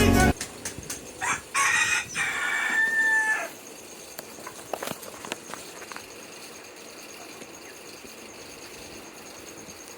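A rooster crowing once, starting about a second in and ending on a held note, followed by a few faint clicks.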